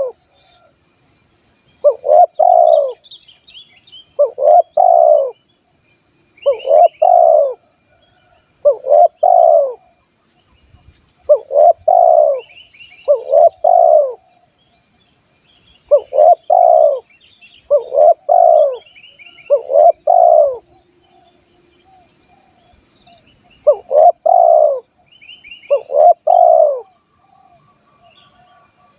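Spotted dove (tekukur) cooing: the same short coo phrase, about a second long, repeated roughly every two seconds with a couple of longer pauses. It is a lure call, over a steady high insect drone and faint chirps of small birds.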